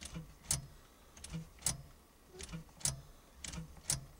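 GMC Jimmy's starter solenoid clicking each time the key is turned, with no cranking: pairs of sharp clicks a little under half a second apart, the second louder, repeating about once a second. A sign of a starter that is hanging up, which the owner takes for a starter fault rather than a dead battery.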